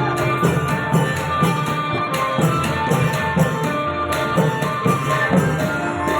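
Thai klong yao long-drum ensemble playing traditional procession music: drums keep a steady beat of about two strokes a second, with cymbals and a melody of held notes over it.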